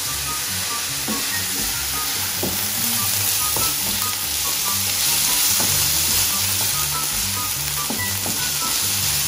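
Chopped onion and spring onion sizzling steadily in a hot non-stick frying pan, stirred with a wooden spatula that scrapes and taps the pan now and then.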